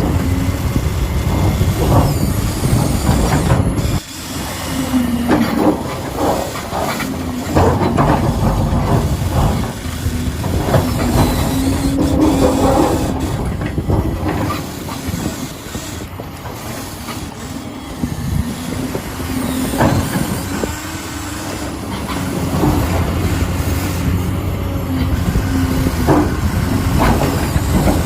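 Huina 1593 radio-controlled excavator working: its small electric gear motors whine, changing pitch as they stop and start, over a steady clatter and rattle of the mechanism. The sound drops back about four seconds in and eases off for a while midway before picking up again.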